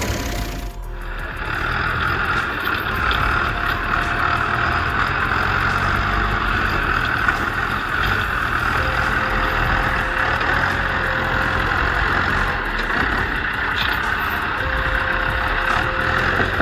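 Heavy vehicle engine running steadily, with a continuous whine above the rumble.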